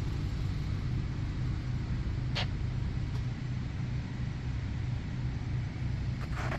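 A car running, with a steady low engine and road hum. A single short click sounds about two and a half seconds in.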